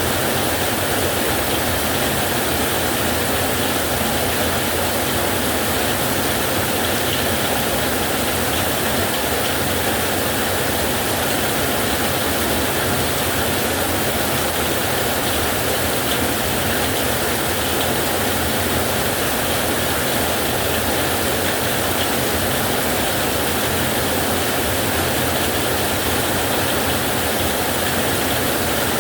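Heavy rain falling on a metal roof, a steady, unbroken hiss with no thunderclap.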